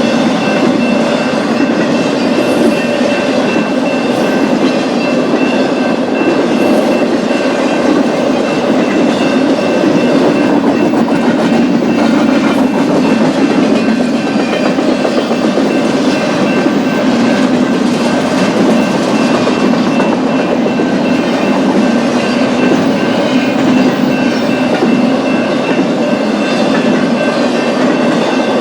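BNSF freight train's cars rolling past steadily, steel wheels on the rails making a continuous rumble with a thin, steady high ring above it.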